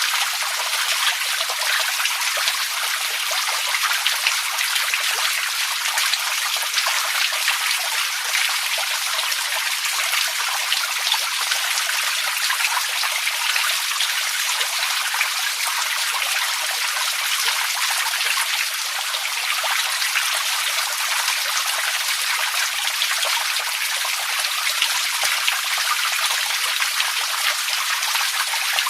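Running water trickling and splashing steadily: a dense patter of small drops, light and high-pitched without a deep rush, unbroken throughout.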